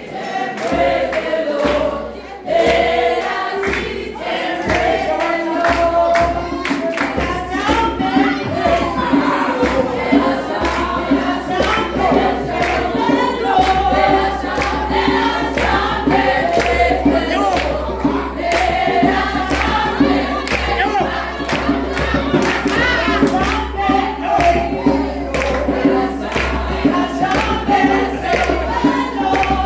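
A group of voices singing a gospel worship song together over a steady beat.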